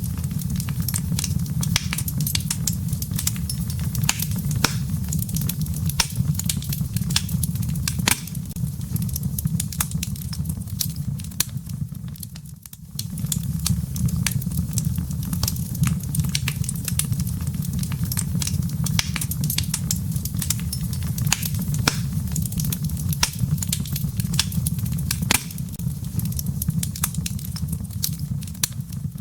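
Wood fire burning in a fireplace: dense, irregular crackling and popping of firewood over a steady low rumble of flame. The sound drops away briefly about twelve seconds in.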